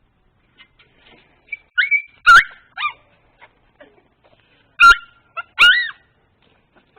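Dog giving short, high-pitched yips and whines in excited bursts: a cluster about two seconds in, then two loud ones around five seconds in.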